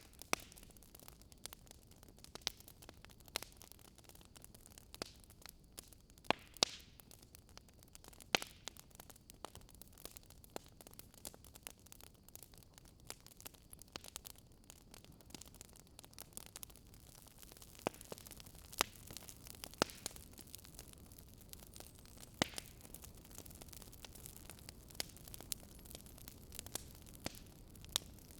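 Wood fire crackling in a fireplace: irregular sharp pops and snaps over a soft steady hiss, the hiss rising slightly in the second half.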